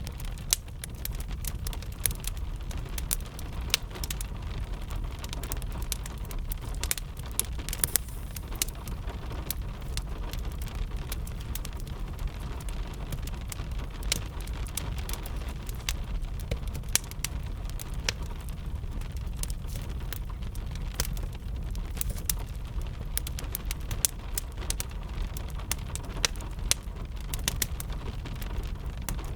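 Crackling wood fire and steady rain together: irregular sharp pops and crackles over a constant low rumble.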